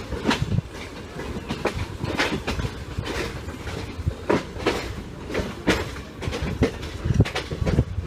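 Inside an Indian Railways express coach on the move: the wheels clatter over rail joints, roughly two knocks a second, over a steady rumble.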